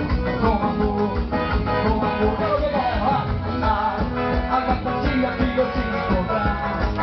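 A live band playing an upbeat Brazilian festival song, with guitar, drums and a singing voice over a steady beat.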